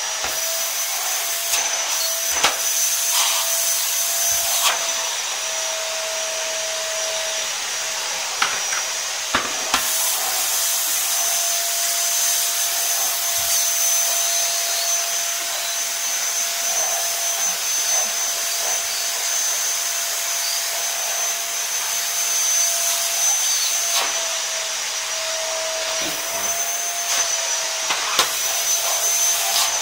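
Vacuum cleaner running steadily: a whooshing rush with a high motor whine that wavers slightly in pitch. A few short knocks and clicks come through, mostly in the first ten seconds and near the end.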